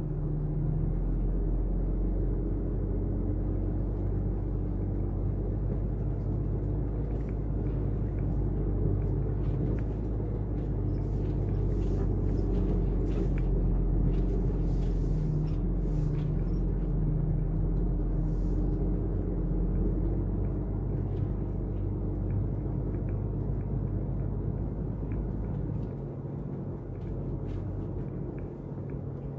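Iveco truck engine running steadily under load while driving with a loaded 40-foot container, a low rumble whose pitch wavers a little as the revs change, easing slightly near the end.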